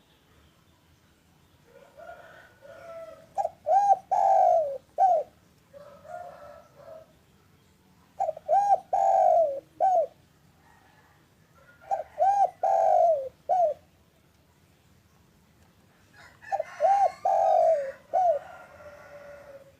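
Spotted dove (derkuku) singing: four cooing phrases about four seconds apart. Each phrase starts with a few soft notes and ends with two or three loud, rounded coos.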